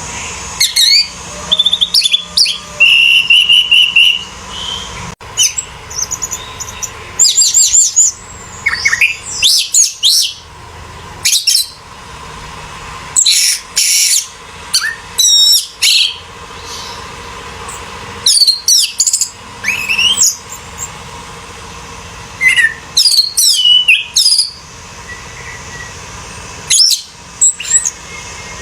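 Orange-headed thrush singing in loud, varied phrases of whistles, sweeping notes and quick runs, a burst every second or two with short pauses between.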